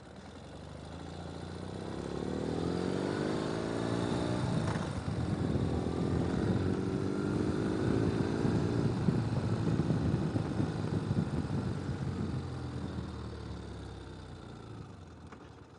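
Ural sidecar motorcycle's flat-twin engine pulling away, its pitch climbing in steps as it works up through the gears, then easing off and quietening toward the end.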